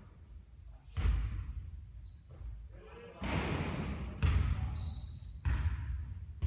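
A basketball bouncing on a hard court floor in a large hall: four heavy thuds about a second apart, each ringing on briefly. Short high squeaks come between the thuds.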